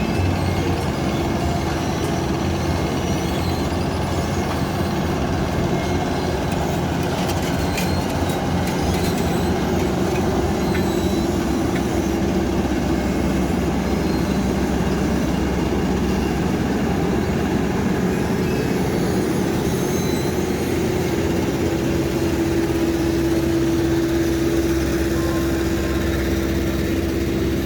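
Heavy diesel road-paving machinery running steadily, a continuous engine drone with a held hum that strengthens in the second half.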